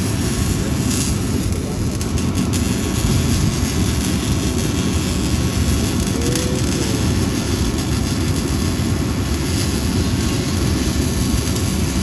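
Steady, loud low rumble of a vehicle engine running at an even speed, with no revving.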